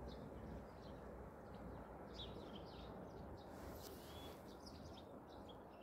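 Faint bird chirps and short high calls, growing more frequent from about two seconds in, over a steady low outdoor background noise.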